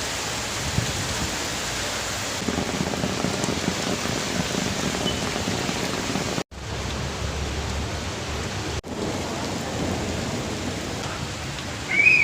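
Heavy rain pouring down in a steady hiss, cutting out sharply for an instant twice, about six and a half and nine seconds in.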